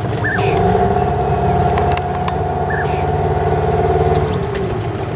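Boat engine running steadily with a pulsing hum; the revs pick up about half a second in and drop back near the end.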